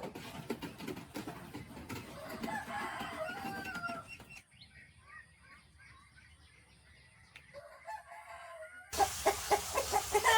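Poultry calling on a farm, with a crow-like gliding call and clucking over rustling and clicking. About nine seconds in it cuts abruptly to a louder run of quick repeated calls.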